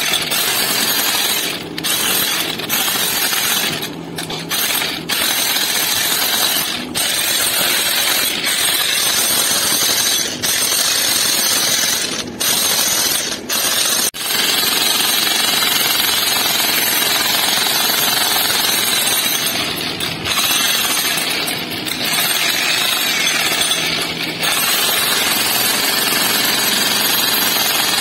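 A power tool hammering loudly and continuously, with short breaks every few seconds, more often in the first half.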